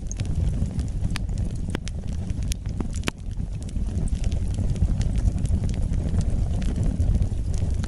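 Wood fire burning: a steady low rush of flames with irregular sharp crackles and pops from the burning wood.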